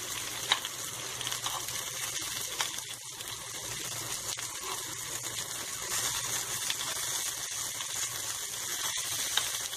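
Paneer tikka pieces with capsicum, tomato and onion sizzling in hot oil in a shallow pan, a steady hiss, while a spoon turns them with a few light clicks.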